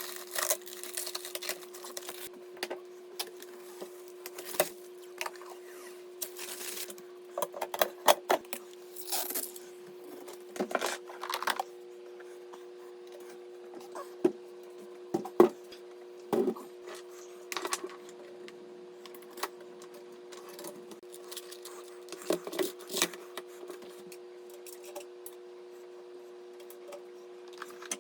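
Scattered clicks, taps and light rattles of small hard parts being handled, irregular and stopping and starting, over a steady hum.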